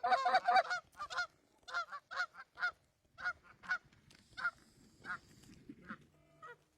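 Goose honking and clucking: a fast run of calls in the first second, then single honks spaced further apart and fading out after about five seconds.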